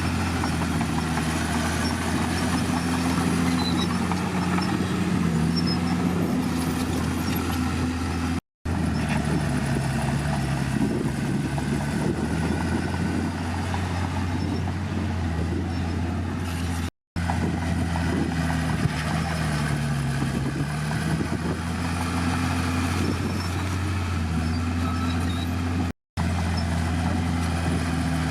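Heavy diesel engine of earthmoving machinery running under changing load, its pitch rising and falling slowly as it works. Three brief dead silences break it up.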